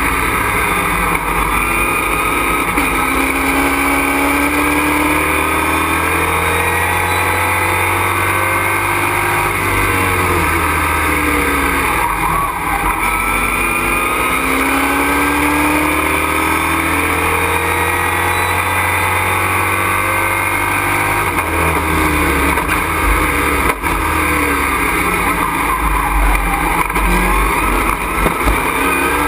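Race truck's engine heard from inside the cockpit under hard driving, its note climbing and falling again and again as it accelerates, shifts and slows for corners, with a brief drop in pitch about twelve seconds in.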